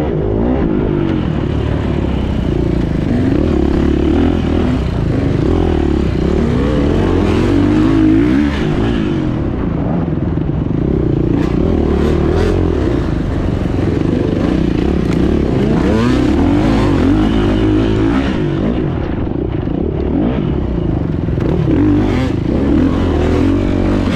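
Beta 430 four-stroke single-cylinder dirt bike engine revving up and down as it is ridden, its pitch rising and falling constantly, with clatter from the bike over rough ground.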